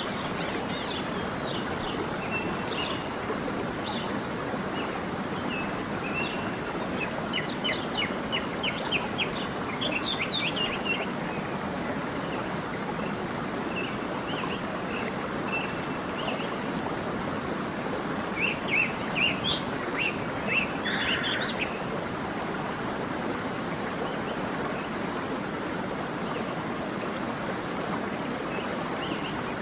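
Stream running steadily, with songbirds chirping over it in short calls that come thickest in two flurries, about a quarter and two thirds of the way through.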